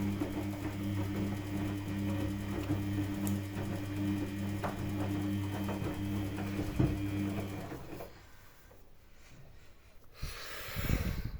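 Samsung washing machine's drum motor turning the drum with a steady hum, stopping about eight seconds in; a short noisy swish comes near the end.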